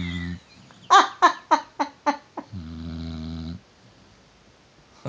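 A sleeping dog snoring: a low, drawn-out snore ends just after the start and another lasting about a second comes about two and a half seconds in. Between them, a quick run of six sharp bursts that fade one after another, louder than the snores.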